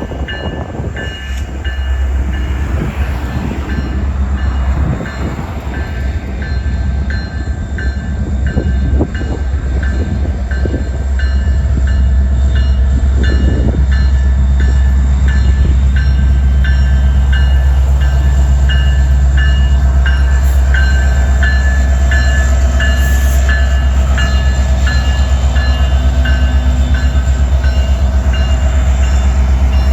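Freight train pulling out, an empty rock train: a strong, steady, low diesel locomotive drone with the cars knocking and clattering over the first half, settling into a steady run about halfway through. A high ding repeats evenly, a little faster than once a second, above the engine sound.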